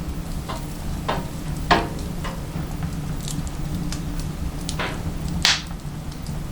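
Firewood crackling and popping as it burns in a wood-burning stove: irregular sharp cracks, the loudest about a second and a half in and near the end, over a steady low hum.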